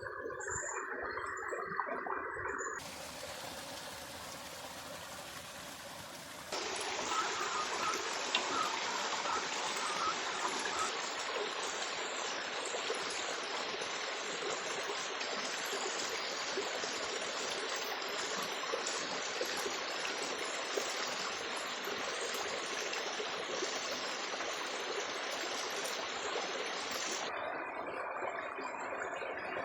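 River water flowing, a steady rushing noise. Its character changes abruptly about 3, 6 and 27 seconds in.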